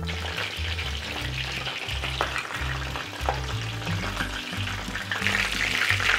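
Shrimp gyoza sizzling as they shallow-fry in about 1 cm of hot oil in a frying pan, with a few sharp pops. The sizzle grows louder about five seconds in.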